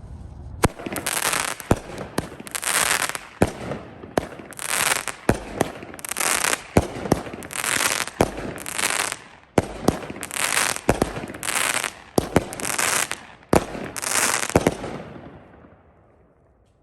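A 200-gram, 11-shot T-Sky 'Mo' Better' fireworks cake firing. A run of sharp bangs as shells launch and break, each followed by a burst of crackling and golden-strobe sizzle, about a dozen in all, dying away near the end.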